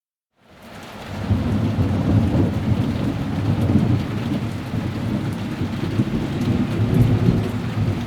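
Thunderstorm: a deep, continuous rolling rumble of thunder over steady rain hiss. It starts from silence about half a second in and swells to full loudness within a second.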